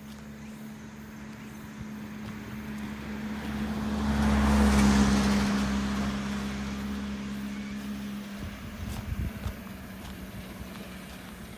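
A motor vehicle drives past: its engine hum and tyre noise grow louder, peak about five seconds in, then fade away.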